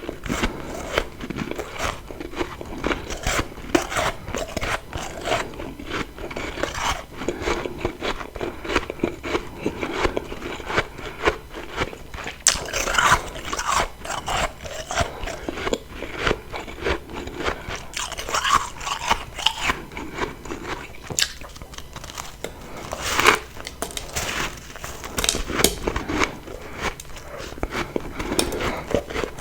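Close-miked biting and chewing of refrozen humidifier freezer frost: a dense run of crisp crackling crunches, with a few louder bites about halfway through and again near the end.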